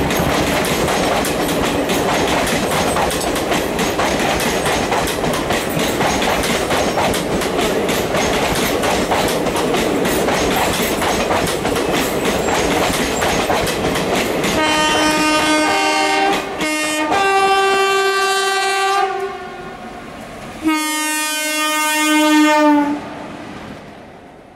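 A train passing close at speed, its wheels clattering over the rail joints. Then a locomotive horn sounds in a string of blasts: a long one broken by a couple of short breaks, and after a pause one more blast of about two seconds.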